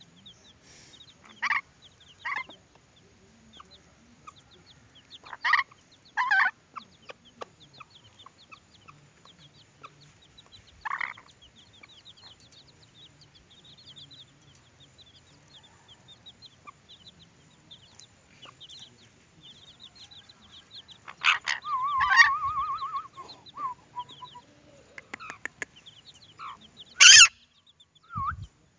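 Short, sharp bird calls every few seconds, with a longer, louder stretch about twenty-two seconds in that ends in a wavering trill. Faint rapid chirping goes on underneath.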